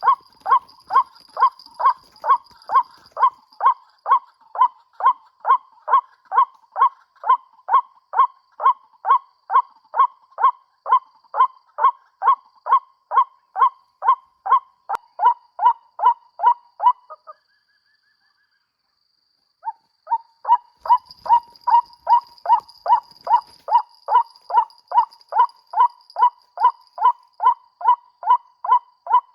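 White-breasted waterhen (ruak-ruak) call played back as a lure: a rapid, very regular string of short croaking notes, about two and a half a second. It stops dead about 17 seconds in and starts again about two seconds later.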